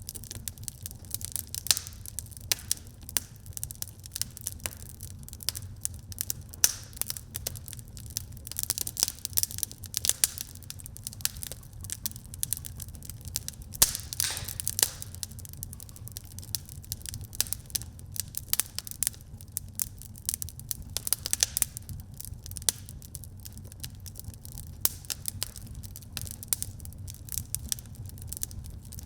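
Wood fire burning in a fireplace, crackling with many irregular sharp pops and snaps over a steady low rumble; a few louder pops cluster about halfway through.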